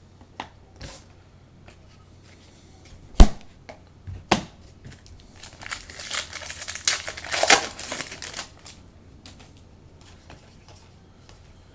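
Trading cards and pack wrappers being handled on a table: a few sharp knocks, the loudest about three seconds in, then several seconds of crinkling and rustling packaging.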